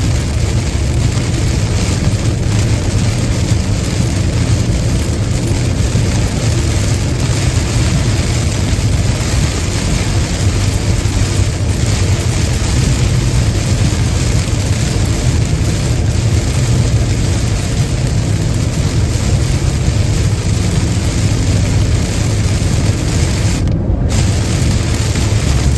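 Steady road noise of a car driving on a wet highway in the rain: a deep, even rumble of tyres and engine under a constant hiss of rain and spray.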